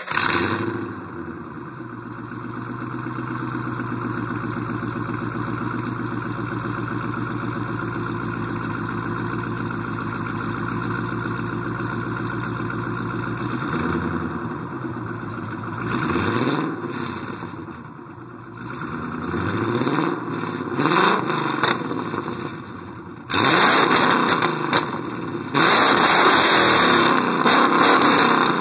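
2010 Ford Mustang GT's 4.6-litre V8 through BBK shorty headers, a BBK catted X-pipe and a Borla ATAK cat-back exhaust. It idles steadily just after starting warm, then is revved in several blips, rising and falling in pitch. Near the end come two long, loud revs, the loudest part, taken to about 5,500 rpm.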